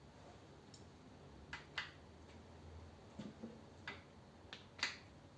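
Faint, irregular clicks and light metallic taps from a torque wrench and socket being worked on the engine's bolts, about half a dozen in all, the loudest near the middle and near the end.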